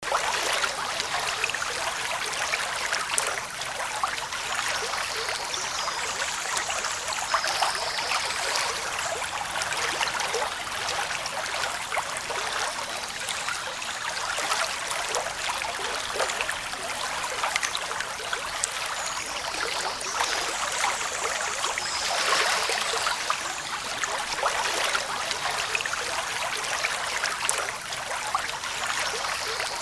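Running water of a stream or brook: a steady rush full of small splashes and trickles.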